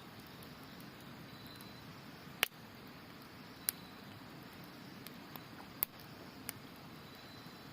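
Wood campfire crackling, with four sharp pops and a few smaller snaps, the first pop about two and a half seconds in the loudest, over a steady rush of river water. Faint high insect chirps come and go in the background.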